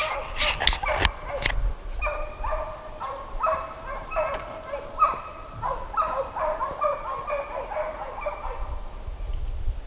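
A pack of deer hounds baying while running a deer track: overlapping, repeated drawn-out calls. A few sharp knocks come in the first second and a half.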